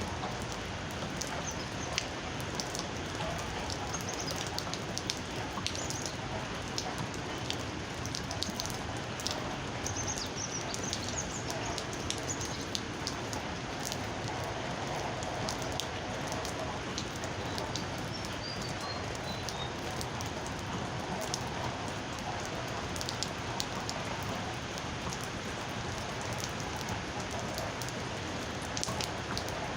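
Steady rain falling, with scattered sharp clicks of individual drops hitting a surface. A bird calls faintly a few times, including a short falling run of high notes about two-thirds of the way through.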